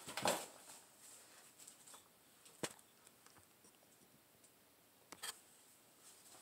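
Quiet room tone with a few faint, sharp clicks, about one every two or three seconds.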